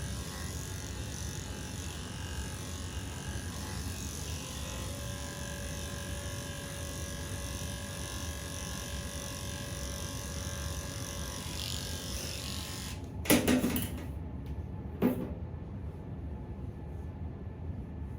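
Electric pet clippers running steadily as they shave a cat's matted fur, switched off about two-thirds of the way through. Two short knocks follow soon after.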